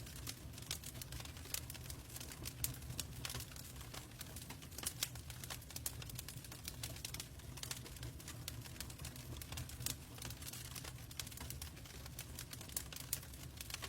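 Logs burning in a fireplace, crackling with irregular sharp pops and snaps over a steady low rumble of the fire.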